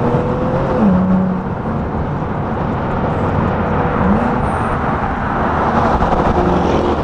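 Car engines running, a dense steady rumble with a few short rises and falls in engine pitch.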